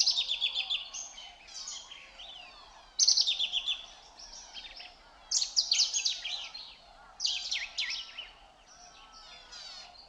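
Birdsong: a bird sings a loud phrase of quick notes that sweep down in pitch, four times, with fainter chirps from other birds between.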